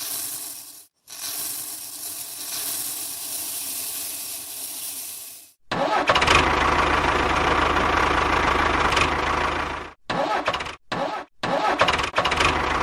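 A small engine running in a series of abruptly cut clips, louder and fuller from about halfway in, after a stretch of steady hiss.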